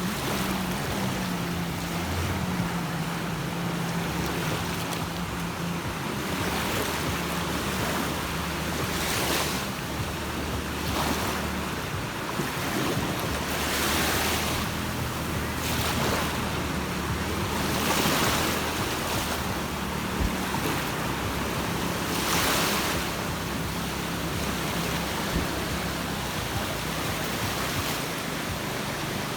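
Sea waves washing onto the shore, swelling and breaking every few seconds, with a steady low hum underneath.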